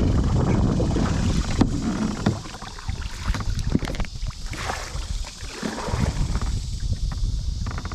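Wind buffeting the microphone for about two seconds, then scattered splashes and small knocks as a small fish is reeled in and landed on a kayak.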